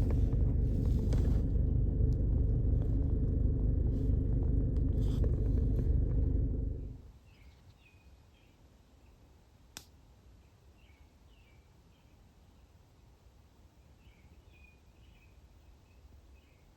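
Steady low rumble that cuts off abruptly about seven seconds in. Then faint, short, repeated bird chirps, with one sharp click.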